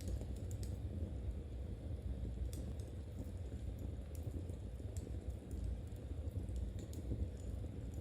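Soft, irregular clicks of knitting needles and the crackle of a wood fire, over a steady low rumble.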